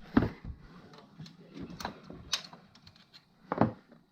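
Scattered sharp clicks and knocks, about half a dozen irregular taps, the loudest a heavier knock about three and a half seconds in.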